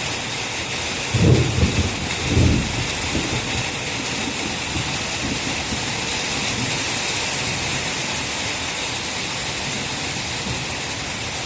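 Steady rain falling, a continuous even hiss. Two short low rumbles break in about one and two seconds in.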